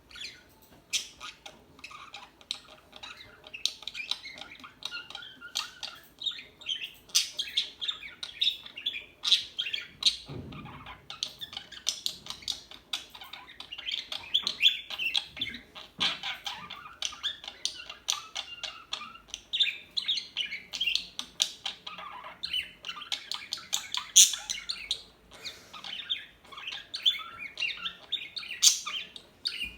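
Several pet parakeets chattering, with dense, overlapping chirps and squawks.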